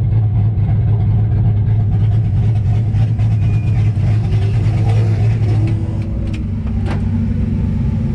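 LS V8 engine of a Nissan S14 drift car running steadily at low speed, easing off slightly about six seconds in. Two sharp clicks near the end.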